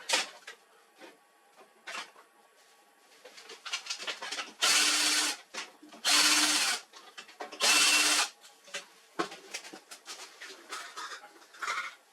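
Electric screwdriver motor run in three short bursts of about a second each, as screws are driven or backed out during disassembly of a laser printer, with small clicks and knocks of parts being handled in between.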